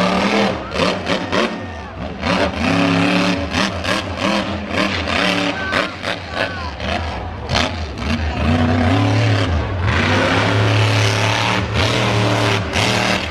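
Monster truck's big engine revving hard and falling off again and again, with many sharp cracks and bangs throughout, then holding a steadier low note near the end.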